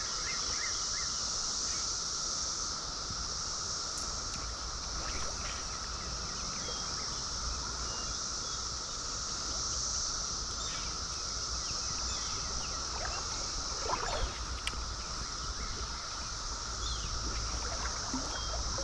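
Brood XIV periodical cicadas droning in a steady chorus: one lower and one higher continuous drone, over running stream water.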